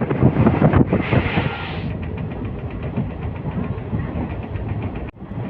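Passenger train running along the track: a steady rumble of wheels on rails, louder for the first couple of seconds. The sound drops out briefly near the end.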